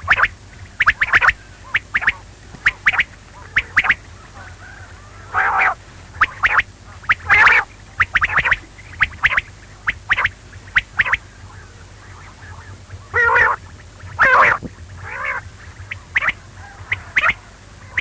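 Quail calling: short sharp chirps repeated irregularly, often in pairs, with a few longer, harsher calls mixed in.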